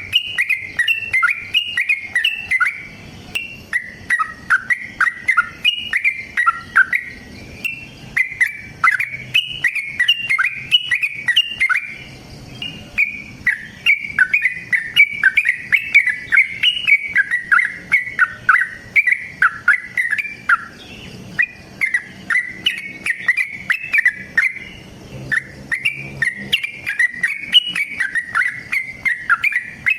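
Yellow-vented bulbul singing long, fast runs of bubbling, chattering notes, phrase after phrase with only short breaks.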